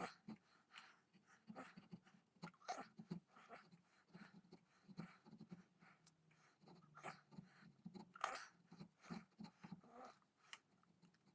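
Faint, irregular scraping and ticking of a chisel paring wood while cutting the inlet for a double set trigger into a rifle's wooden stock.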